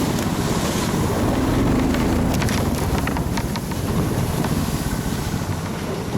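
Wind buffeting the microphone: a loud, dense low rumble, with a few sharp clicks around the middle.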